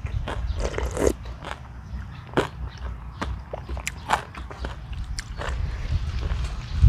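A person chewing and biting food at close range, with irregular crunchy clicks and smacks, over a steady low rumble of wind on the microphone.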